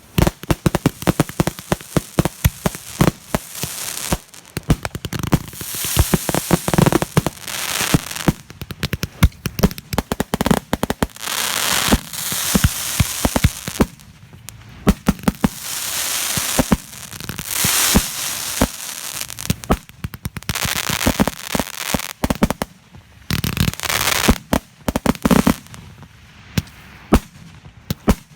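Fireworks going off: a rapid, dense run of sharp cracks and pops with repeated swells of crackling hiss, thinning out near the end.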